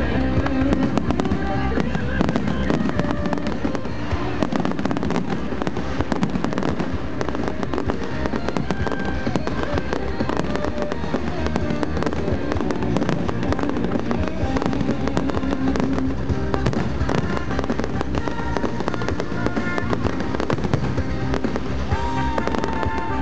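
Fireworks display: a dense, continuous run of crackling and popping from aerial shells bursting overhead, with music playing underneath.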